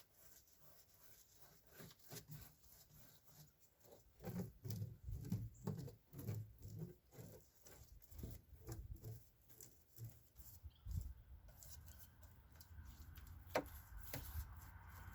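Faint, irregular rubbing, scraping and light knocks of hands-on work, with one sharp click about thirteen and a half seconds in.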